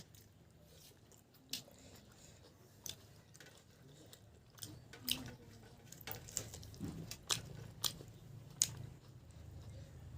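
Close-miked eating sounds: a person chewing, with scattered sharp mouth clicks and smacks that come more often in the second half.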